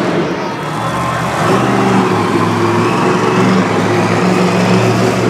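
Monster truck's supercharged V8 engine running loud and fairly steady, heard over the arena crowd's noise. It grows louder and steadier about a second and a half in.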